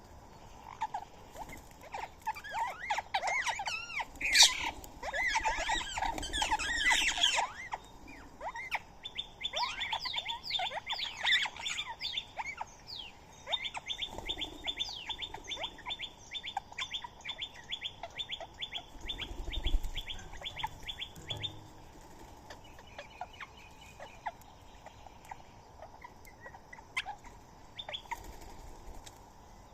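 Birds chirping and squawking, a dense burst of overlapping calls at first, then a long run of rapid, evenly repeated short chirps lasting about ten seconds, then scattered chirps.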